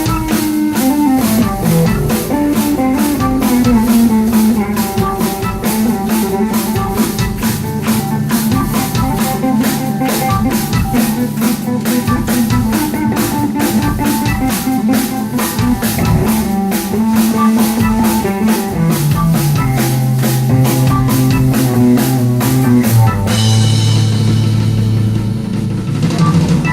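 A live hard rock band plays a passage with electric guitar over a steady drum-kit beat, without vocals. Near the end the cymbals wash out and a low note is held.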